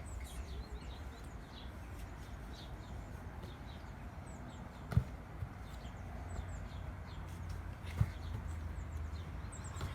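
Two dull thuds of a football being struck or bounced, about five and eight seconds in, over faint bird chirps and a low steady rumble.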